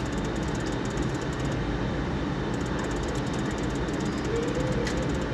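Steady casino-floor background hum, with faint ticks and a brief soft tone from slot machines.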